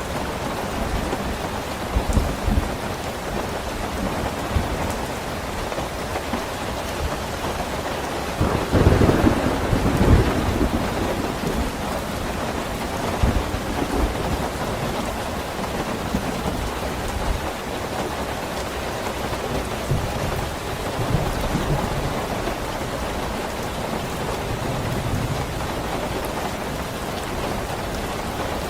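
Steady rain falling, with a low roll of thunder about nine seconds in that lasts a couple of seconds, and fainter low rumbles now and then.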